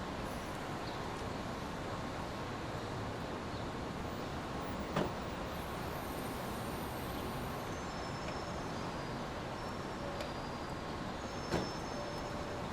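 Steady rushing noise of a sleep-noise track, with two short clicks, one about five seconds in and one near the end, and a few faint high chirps in between.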